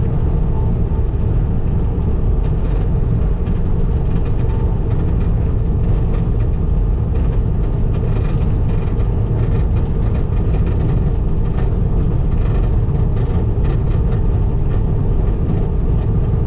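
Skid steer's diesel engine running steadily under load while pulling a grader attachment, with scattered small clicks and crunches from the blades cutting and churning the gravel driveway.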